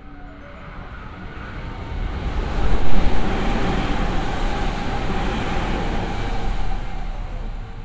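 Hanwa Line electric train running along the station platform: a rushing rumble that builds to its loudest about three seconds in, stays loud, and eases off near the end.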